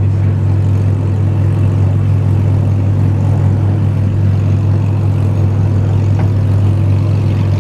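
A car engine idling steadily, a low even hum that holds one pitch throughout.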